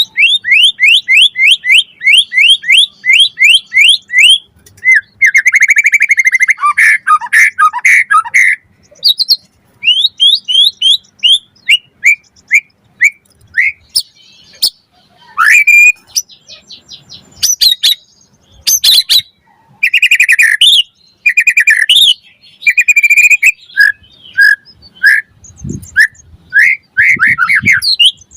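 White-rumped shama (murai batu) singing a loud, varied song. It opens with a fast run of repeated down-swept notes, goes into a dense rattling phrase, then gives separate whistled notes, trills and sharp clicks with short pauses between phrases.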